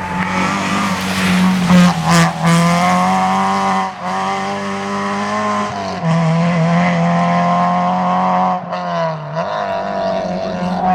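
Rally car engine running hard at high revs on a tarmac stage, with brief dips in revs about four, six and nine seconds in as the driver shifts gear.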